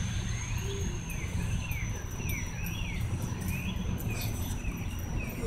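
A bird repeating short, rapid up-and-down whistled notes, a few per second, over low wind rumble and a steady thin high-pitched whine.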